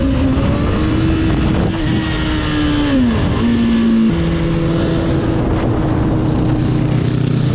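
Motorcycle engine running loudly under way with a haze of rushing noise. Its pitch holds steady, dips and comes back up about three seconds in, then steps down again about a second later.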